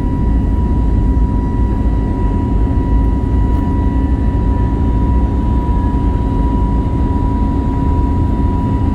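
Cabin noise of an Airbus A321neo under jet power: a loud, steady rumble of engines and airflow with a steady high tone over it.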